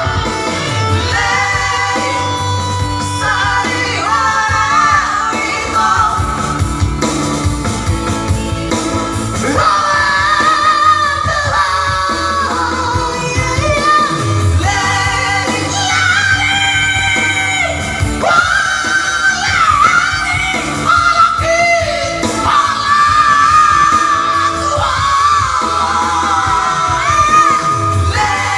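A person singing loudly over instrumental backing music, with long held notes that waver in vibrato.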